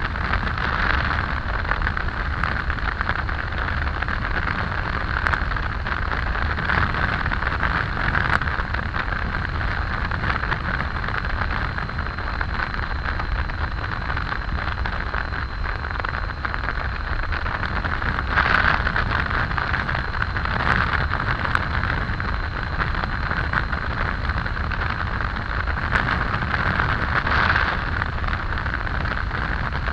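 Wind rushing over the microphone on a moving motorcycle, over road noise and the low steady drone of a Triumph Tiger 800's three-cylinder engine. The wind noise swells briefly several times.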